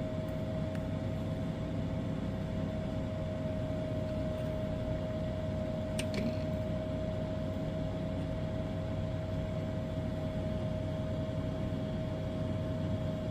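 A steady mechanical hum with a constant whine, like a small fan or motor running, and a single sharp click about six seconds in.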